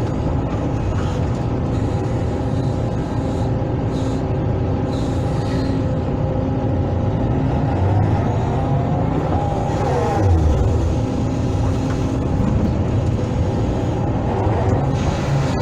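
Hydraulic excavator's diesel engine running steadily as it works a gravel pile, with a brief rise and fall in pitch a little past the middle.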